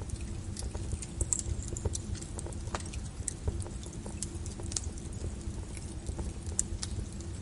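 Wood fire crackling in a fireplace: irregular sharp crackles and pops scattered over a low steady rumble.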